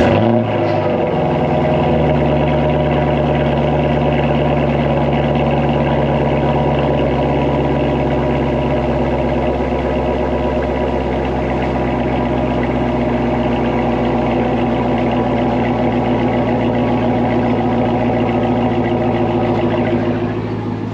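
Car engine on a cold start, its exhaust open right after the X-pipe with no pipes or tips behind it. The start-up rev falls away over the first couple of seconds and the engine settles into a steady, loud idle.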